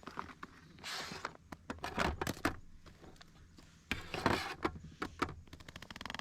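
Irregular handling noises: knocks, scrapes and rustles of objects being moved about, with a fast run of small clicks near the end.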